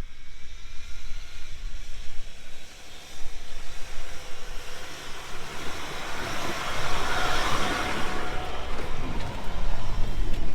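A four-wheel drive driving along a dune track, with a steady low rumble from the engine and tyres. A broad hiss swells and fades about six to nine seconds in.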